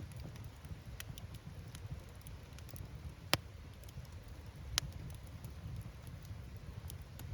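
Wood campfire burning: a low steady rumble of flames with scattered small crackles of firewood. There are two sharp, louder pops of the wood bursting around the middle, about a second and a half apart.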